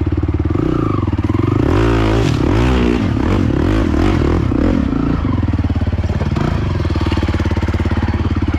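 Honda TRX450 quad's single-cylinder four-stroke engine running under load, revving up and down several times in the middle, then settling into a steady drone.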